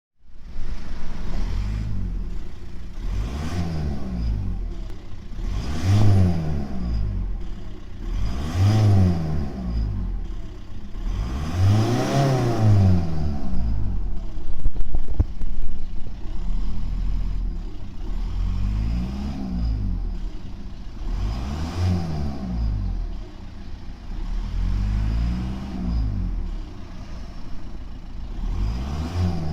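Volkswagen Golf Mk5 1.9 TDI four-cylinder diesel engine revved and released about seven times, its pitch rising and falling each time, the biggest rev about twelve seconds in. It shows an odd noise that appeared two weeks after the turbocharger was replaced, which the owner cannot identify.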